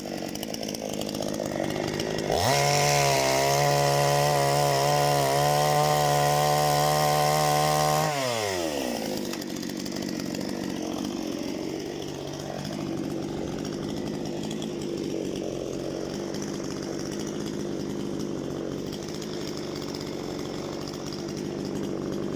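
Parma BP-058 two-stroke chainsaw idling, then revved up to full throttle about two seconds in and held for roughly six seconds, then dropping back to idle and running on.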